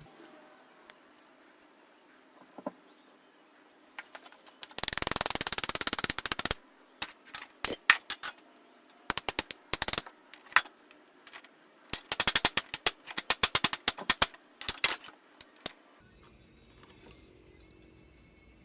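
Oak handle scales and the steel cleaver being fitted together by hand: sharp clicks and knocks of wood against metal. There is a rapid rattling clatter about five seconds in, then scattered taps and quick runs of clicks that stop a couple of seconds before the end.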